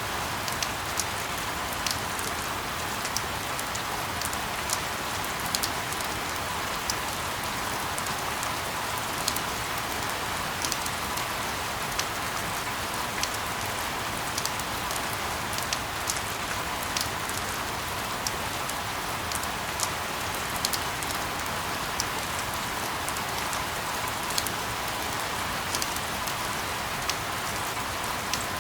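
Steady rain falling, an even hiss with scattered sharp drop ticks landing irregularly through it.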